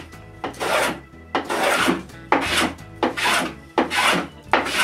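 Hand plane cutting along wooden edging to bring it flush with the tabletop: about seven quick rasping strokes, one after another.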